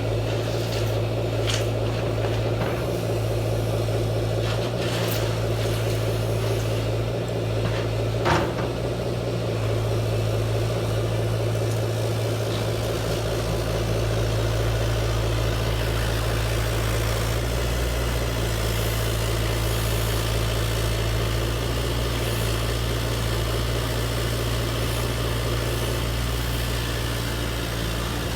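Steady low machine hum of a motor running, with a few sharp clicks in the first third.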